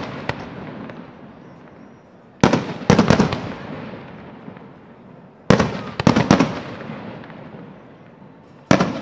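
Aerial fireworks shells bursting in groups of two or three loud bangs about every three seconds, each group followed by a rumbling echo that fades away.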